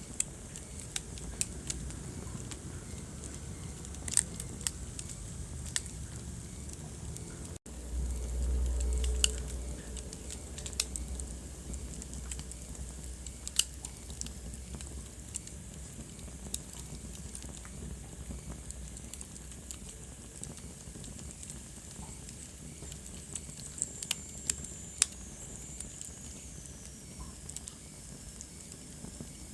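Wood fire burning in a fireplace: irregular sharp crackles and pops over a steady low rumble and hiss. There is a brief break in the sound about a quarter of the way in, then the low rumble swells for a couple of seconds. A faint high whistle falls in pitch near the end.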